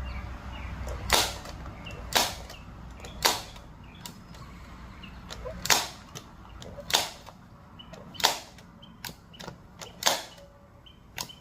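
Staple gun firing staples into a trim panel: a series of sharp snaps roughly a second apart, some louder than others.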